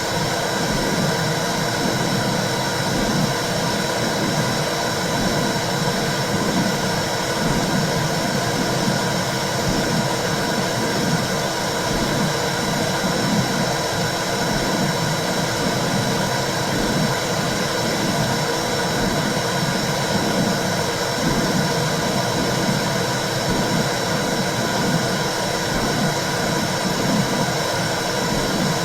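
Womb sound: a steady whooshing rush with a regular low pulse beating through it, like a heartbeat heard from inside the body, and a thin steady high tone above.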